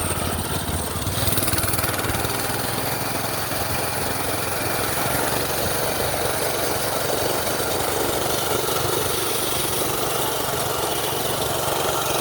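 Minibike's small gasoline engine running steadily.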